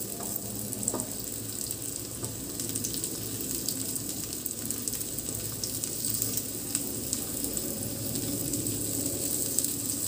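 Brahmi-leaf pakoras frying in ghee in a shallow non-stick pan: a steady sizzle with many fine crackles.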